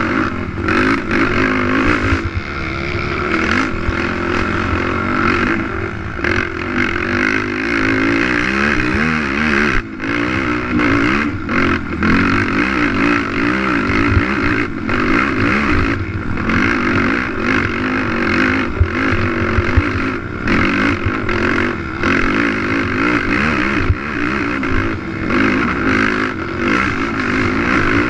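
Racing quad's engine running hard, its pitch rising and falling constantly as the throttle is worked, with scattered knocks and clatter from the machine over rough ground.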